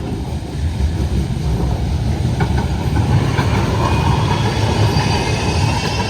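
Manchester Metrolink tram running past over the level crossing: a low rumble of wheels on rail that grows louder, with high metallic wheel squeal joining in about halfway through.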